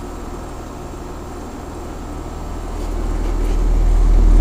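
Outdoor unit of a Bryant Evolution 5-ton two-stage heat pump running in heating mode: a steady low hum of compressor and condenser fan, growing louder over the last couple of seconds. The outdoor coil is frosting over and the unit has not yet gone into defrost.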